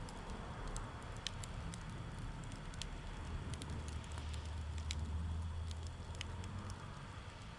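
Wood campfire crackling, with scattered sharp pops over a low rumble that swells in the middle.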